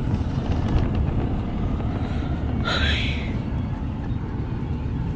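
Car cabin noise while driving: a steady low road and engine rumble, with a brief higher-pitched sound about halfway through.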